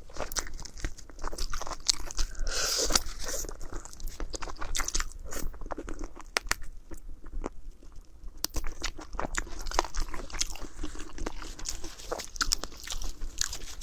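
Close-miked eating: a person chewing and biting, with many quick, irregular crunches, a little sparser about halfway through.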